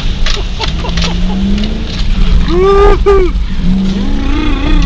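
Four-wheel-drive vehicle's engine running in the cabin as it crawls over a rough, muddy off-road track, the engine note rising and falling with the throttle, with knocks and rattles of the body over the bumps.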